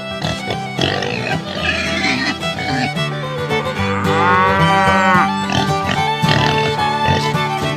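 Background music with held notes, over which one long cow moo rises and falls about four seconds in.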